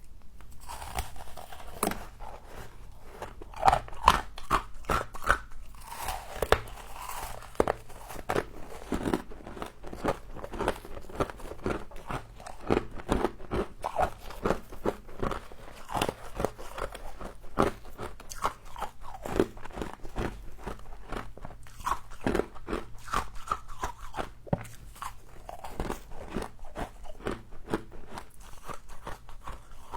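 Close-miked biting and chewing of crunchy frost: a steady run of irregular, crackly crunches.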